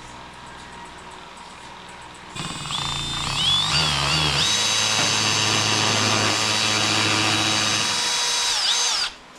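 A small electric power tool starts about two seconds in, spins up with a rising whine and runs steadily at a high pitch while cutting gasket material for a homemade throttle body gasket. It cuts off shortly before the end.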